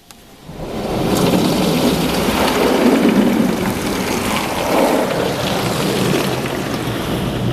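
High-pressure water jets of a Ryko RADIUS HT touch-free car wash drumming on the car's body, heard from inside the car. The spray starts about half a second in, quickly becomes loud and stays steady.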